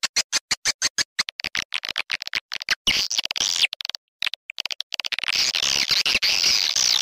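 Swiftlet lure call for a swiftlet house: rapid sharp chirping clicks, about eight a second, with a short gap around four seconds in, turning into a dense continuous twittering in the last two seconds.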